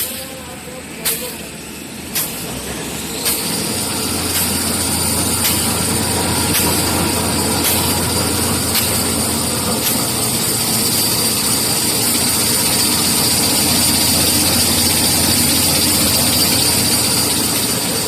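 Kitchen towel paper converting machine running, with a steady hum and a sharp click about once a second. About three seconds in, a high whine rises in and then holds steady as the machine comes up to speed and grows louder.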